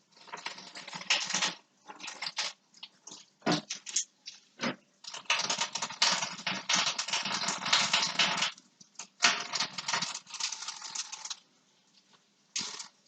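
Hands washing and handling a raw whole chicken in a sink: irregular wet rubbing and splashing in short bursts with brief gaps.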